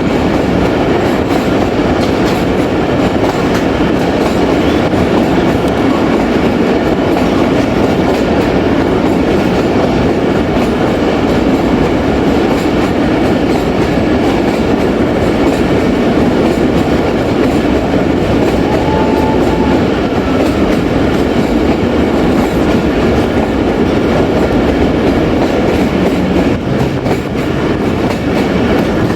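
Jaffar Express passenger train running along the track, heard from on board: a steady, loud rumble of wheels on rails.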